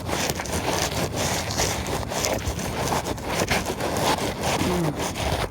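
Fluffed-out steel wool scraping and crackling as it is shoved and wedged into a squirrel hole: a continuous scratchy rustle full of tiny clicks.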